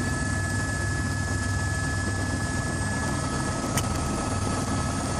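Helicopter running steadily: a dense, even rumble with a few steady high whine tones over it, and a single sharp click a little before four seconds in.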